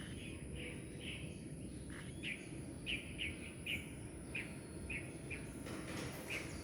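Young white-faced cinnamon pearl cockatiel chick chirping: a dozen or so short, high chirps, about two a second, over a low steady background noise.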